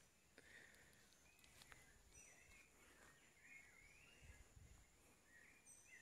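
Faint wild birdsong: a bird repeating short warbled, whistled phrases, with a few brief high chirps now and then.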